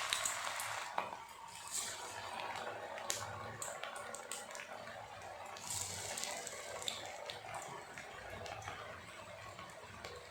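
Raw-banana vadai frying in hot oil: a steady sizzle of bubbling oil with scattered crackles and pops, growing gradually quieter.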